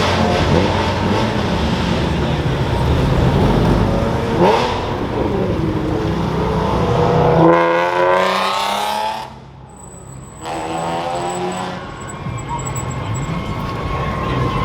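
Car engines running at a car meet, with one engine revving hard in a rising pitch about halfway through. The sound then drops away sharply for about a second.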